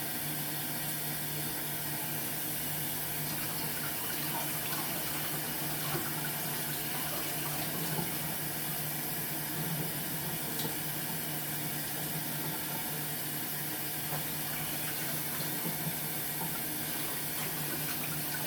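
Kitchen sink faucet running steadily into the sink, with a few light knocks.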